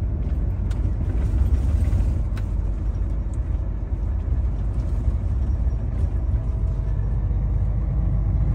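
Heavy truck driving: a steady low engine and road rumble with a few faint clicks.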